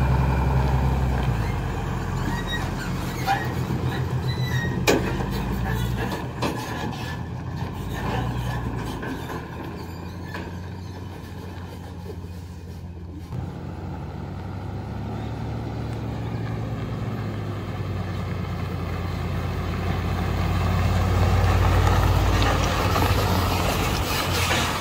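Ram 3500 dually's 6.7-litre Cummins turbo-diesel engine running as the truck pulls a trailer loaded with pallet wood. The low drone grows louder toward the end, and a few knocks and clicks come in the first half.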